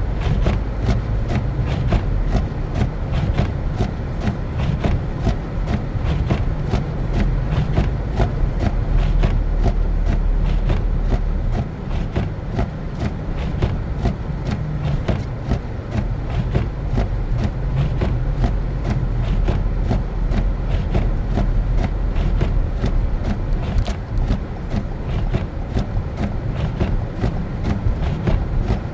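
Car driving on a snowy road: a steady low rumble of engine and tyres, with a constant scatter of sharp ticks and crackles on top.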